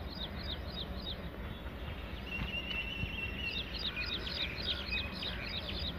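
A bird calling in quick runs of short falling chirps, twice, with a steady high tone for about a second midway, over a low steady rumble.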